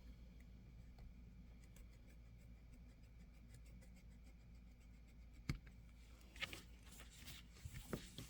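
Quiet handling sounds of a plastic planner cover being trimmed on a cutting mat: faint scratching, a sharp click about five and a half seconds in, then a few short scrapes and taps near the end.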